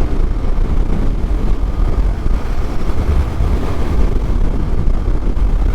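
Heavy wind noise buffeting the microphone of a motorcycle at riding speed, with the Yamaha MT-07's parallel-twin engine running beneath it. The low rumble is steady.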